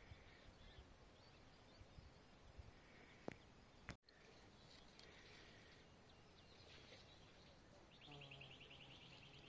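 Very faint outdoor ambience with distant bird calls, a brief click about three seconds in, and a rapid trilling call near the end.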